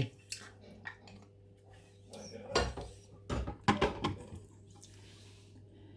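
Kitchen utensils and dishes clinking and knocking: a spoon and pie dishes being handled, with several separate knocks, the loudest cluster about halfway through.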